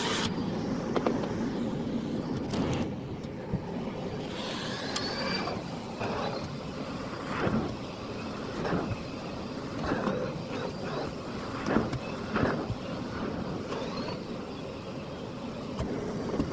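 Miele Blizzard CX1 bagless canister vacuum cleaner running steadily, with a number of short knocks and rattles scattered through.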